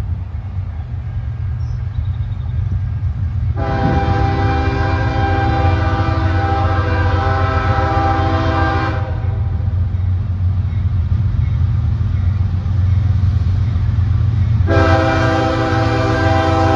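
CSX freight train with three diesel locomotives running with a heavy, roaring low rumble that grows louder as it comes near. The locomotive's multi-tone air horn sounds one long blast of about five seconds a few seconds in, and starts another near the end.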